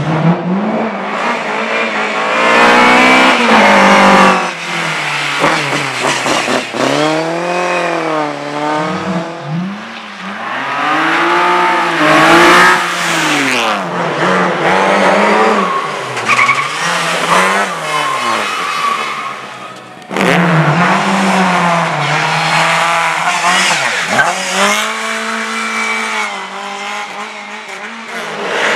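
Race car engines revving hard and repeatedly rising and falling in pitch through acceleration, gear changes and braking, with tyre squeal. About 20 seconds in, the sound drops briefly, then comes back at full loudness.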